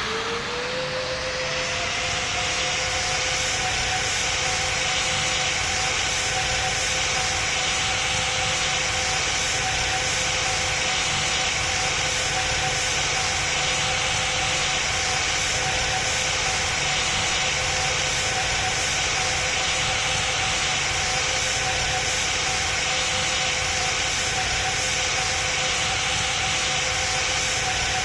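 Boeing 777 jet engines spooling up: a whine rises and levels off about two seconds in, then settles into a steady loud roar with a held tone.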